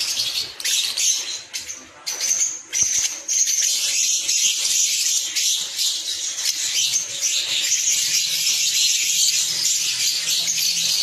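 Lovebirds chattering: a dense stream of high-pitched chirps, broken at first, then running unbroken from about two seconds in.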